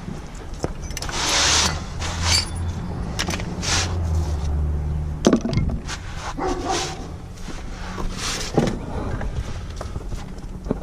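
Metal tools and brake parts being handled: scattered clinks and knocks, with one sharp knock about five seconds in. A low engine hum runs under the first half and stops at that knock.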